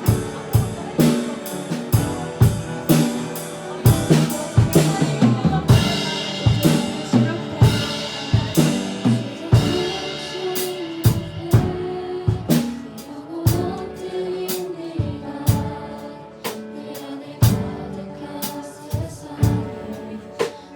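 Live worship band playing: a drum kit keeps a steady beat of snare and bass drum hits under piano chords and singing. The drumming thins out and the music gets somewhat softer a little past halfway.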